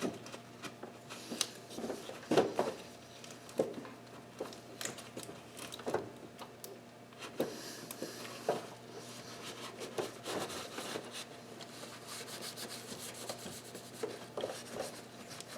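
Rag rubbing and scrubbing inside a grimy engine, with irregular scrapes and short knocks as hands and rag work into a hard-to-reach spot.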